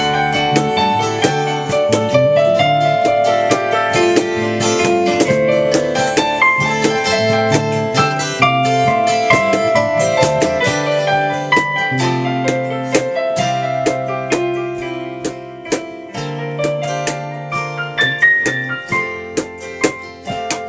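Instrumental break of a song: a keyboard plays a run of struck notes and chords over held low bass notes, with no voice.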